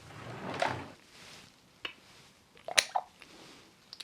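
Skincare containers being handled: a soft rustle, then a few sharp clicks and knocks, the loudest a close pair nearly three seconds in.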